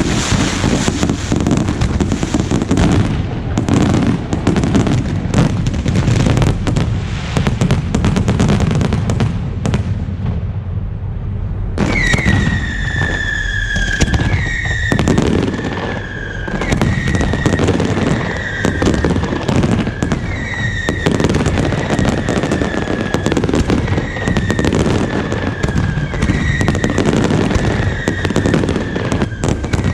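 Fireworks display: a dense, continuous barrage of bangs and crackling. From about twelve seconds in, high whistles join it, recurring every second or two and each falling slightly in pitch.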